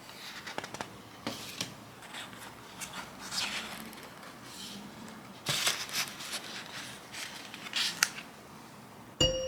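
Scattered soft rustles, taps and clicks of drawing supplies being handled. Music with a glockenspiel-like melody starts near the end.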